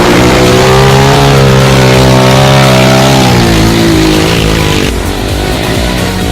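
Trail motorcycle engine running hard, its pitch rising and falling a little, then easing off and going quieter about five seconds in.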